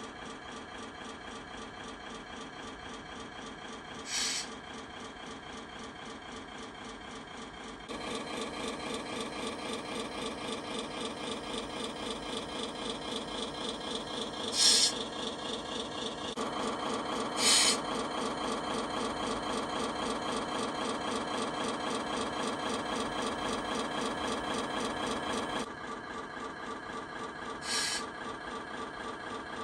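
Simulated diesel truck engine sound from the Scania 770S model's sound unit, a steady fast-pulsing buzz that gets louder in steps about a quarter and halfway in and drops back near the end. Four short hisses are heard over it.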